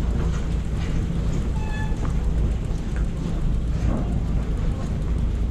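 A small ferry's engine running with a steady low rumble, with a brief pitched beep or tone about a second and a half in.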